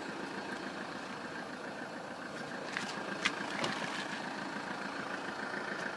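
Car engine idling steadily, with a few faint clicks about halfway through.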